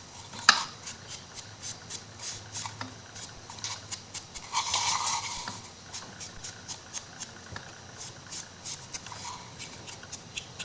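Hands handling and rubbing paper-covered MDF craft pieces on a tabletop: soft scratching and rubbing with small ticks, a sharp click about half a second in, and a louder rustle around the middle.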